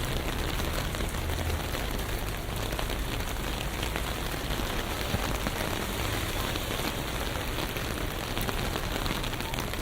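Steady city rain: an even hiss dotted with many small drop ticks, over a low rumble of traffic.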